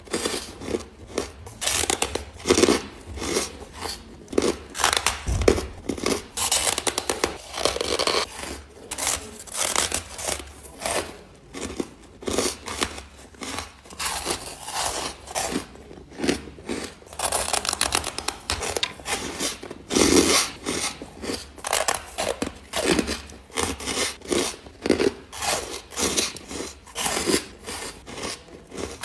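Close-miked crunching of ice being bitten and chewed, in quick, irregular crunches several times a second without a break.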